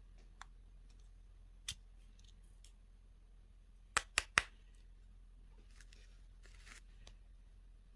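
Handling of candy and toy packaging: a few sharp clicks, with three in quick succession about four seconds in, then a short crinkly rustle near the end.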